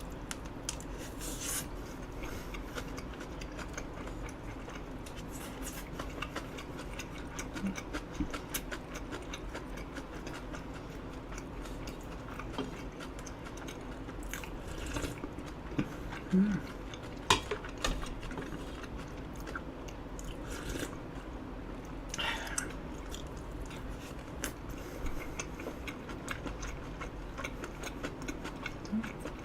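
Close-miked chewing and eating sounds of a person eating an eel rice bowl, soft mouth noises with many small clicks and a few sharper clicks scattered through.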